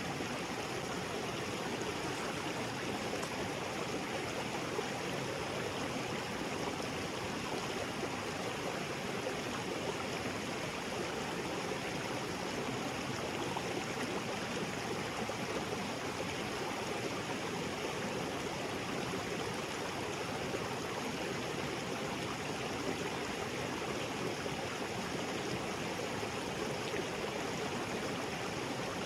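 Small waterfall on a jungle creek: water splashing and rushing steadily, without change.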